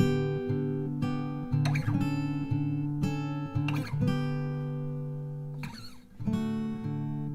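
Acoustic guitar music: strummed chords that ring on between strokes, with a chord change every second or two and a short drop-out about six seconds in.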